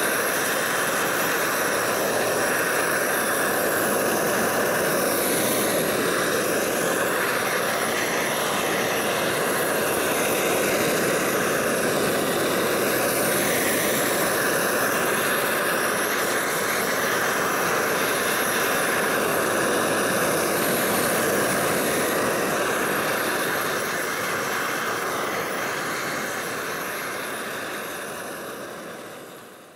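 Homemade propane roofing torch burning steadily with a loud hiss, heating torch-on bitumen roll roofing; the sound fades out over the last few seconds.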